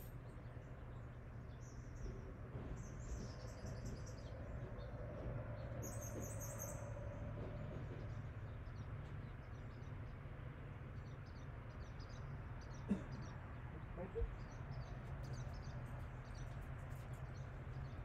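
Small birds chirping in short, high phrases over a steady low hum, with two brief knocks in the second half.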